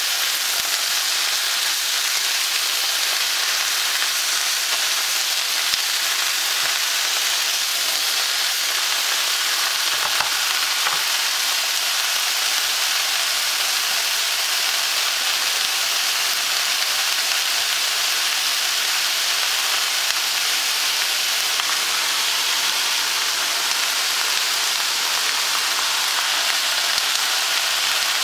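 Stir-fried vegetables (cauliflower, snow peas and yellow pepper) sizzling steadily in a hot frying pan, with a few faint clicks along the way.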